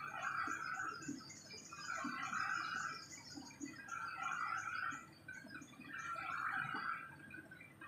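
Birds chattering in repeated bouts of rapid, scratchy notes, each burst lasting about a second and returning roughly every two seconds.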